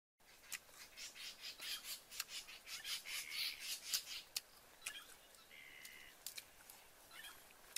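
Birds calling in woodland: a quick run of sharp chirps and squawks for the first four seconds or so, then a short, steady whistled note about five and a half seconds in.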